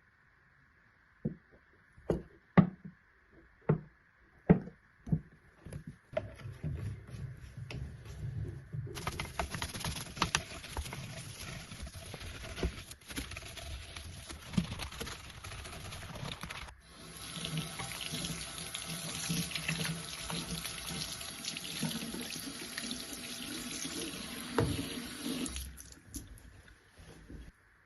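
A few sharp knocks of things being handled, then a water tap running into a sink for about twenty seconds, briefly dipping partway and turned off near the end.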